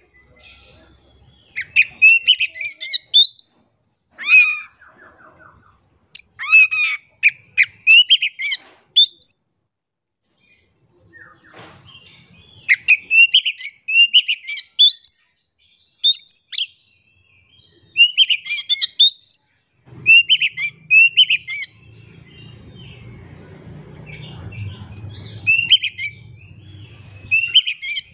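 Oriental magpie-robin (kacer) singing in bursts of short, quick, varied whistled and chattering phrases, with brief pauses between runs. A low hum sits underneath in the second half.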